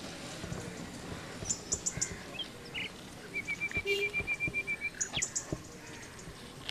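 Birds calling, with scattered short high chirps. About halfway through, one bird gives a quick, even run of about a dozen high notes lasting about a second and a half.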